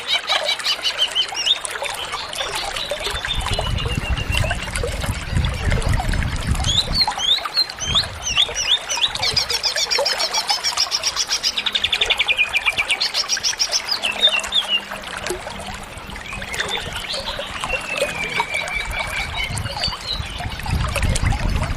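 Green leafbird (cucak ijo) singing non-stop, a varied stream of whistled slurs, sharp chirps and rapid trills, full of fill-in phrases (isian). A fast rattling trill comes about halfway through.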